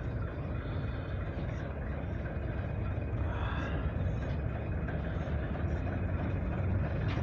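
Alco diesel locomotive engine running with a steady low rumble, heard from a distance.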